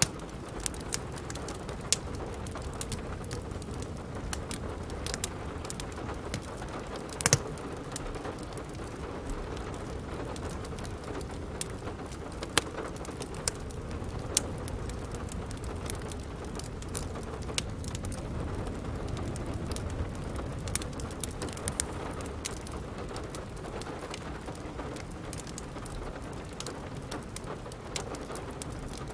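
Steady rain mixed with irregular sharp crackles and pops from a wood fire, the loudest pop about seven seconds in.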